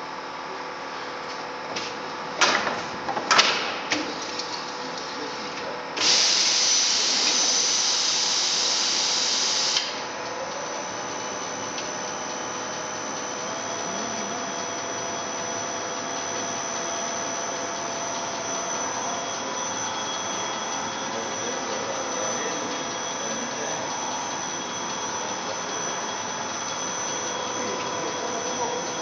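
Nonwoven-fabric rewinding machine running with a steady motor hum and several constant high tones. A few sharp knocks come about two to three seconds in, and a loud hiss lasts about four seconds from about six seconds in.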